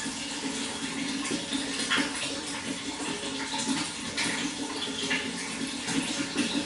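Running water splashing and trickling steadily, with small splashes coming and going.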